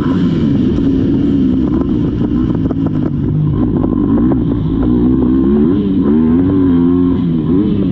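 Motocross dirt bike engine being ridden hard, its pitch rising and falling again and again as the throttle opens and closes, with scattered sharp clicks and knocks.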